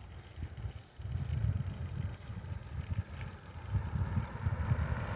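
Wind buffeting the microphone of a camera carried on a moving bicycle, an uneven low rumble that picks up about a second in.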